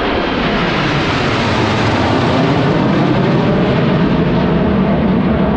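Jet noise from the Frecce Tricolori's Aermacchi MB-339 jet trainers flying the display. It is loud and continuous, swelling a little in the first second or so and then holding steady.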